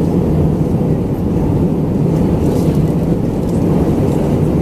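Steady low rumble inside the cabin of an Airbus A319-112 in descent: engine and airflow noise heard from a window seat, even and unchanging, with most of its weight in the low range.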